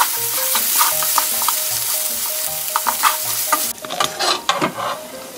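Minced pork, onion and chili powder sizzling in oil in a frying pan while being stirred and scraped with a wooden spatula. The sizzle drops sharply near the end, leaving clicks and scrapes of a spoon and chopsticks in the pan.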